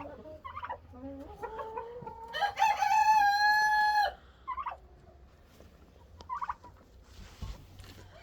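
A rooster crowing once, a long call rising into a held note about two to four seconds in, with shorter chicken clucks and calls around it.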